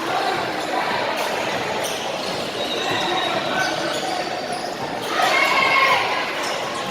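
Basketball game sounds: a ball bouncing amid a babble of voices, with louder shouting about five seconds in.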